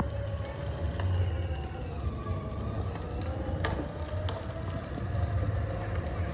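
Kids' electric ride-on motorbike running: a steady low hum with a faint wavering whine, and a few light clicks.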